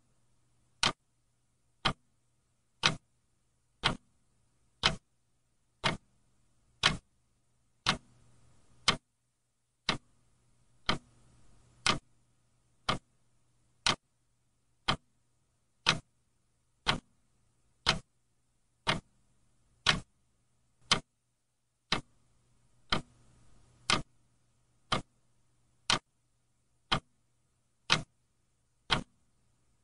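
Clock ticking steadily, one sharp tick each second, over a faint low hum.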